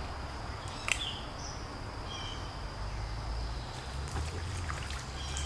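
Outdoor ambience: a steady high insect drone, a few short bird chirps, and one sharp click about a second in, over a steady low rumble.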